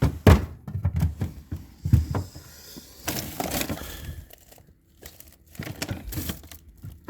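Plastic food packaging crinkling and frozen items knocking together as they are handled and moved about in a freezer drawer, with a denser stretch of crackling about three seconds in.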